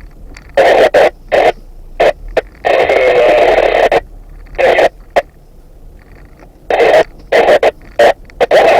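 Two-way radio chatter: several short bursts of a distorted, tinny voice over the radio speaker, with gaps of low background noise between transmissions.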